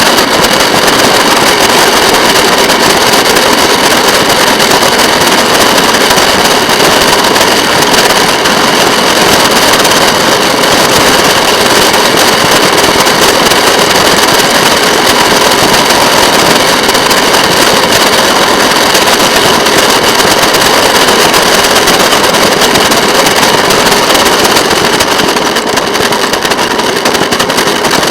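Rail motorcar running along the track, its engine and wheel noise sped up by the time-lapse into a loud, dense crackling rattle that never lets up.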